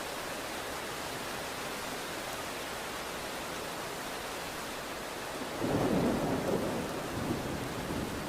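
Steady rain hissing, then a loud roll of thunder rumbling in about five and a half seconds in and carrying on to the end.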